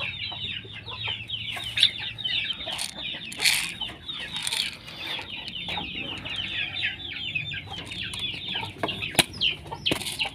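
A cage of birds chirping continuously, many short high chirps overlapping, with a few sharp clicks scattered through, while they are being fed.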